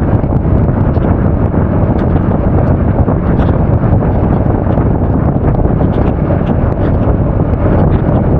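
Loud, steady wind rushing over an action camera's microphone while riding a Honda Forza 350 scooter at speed, drowning out most other sound.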